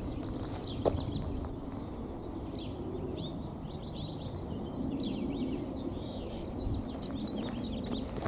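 Small songbirds chirping and twittering: short high chirps repeating about once a second, with busier twittering calls between them, over a steady low outdoor background noise.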